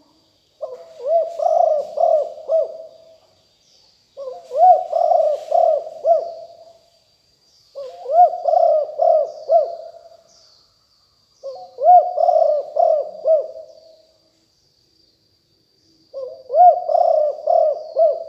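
Spotted dove cooing: five phrases of several pulsing coos, each phrase about three seconds long with a short pause between them. A faint steady high whine and small high chirps from other birds sound faintly underneath.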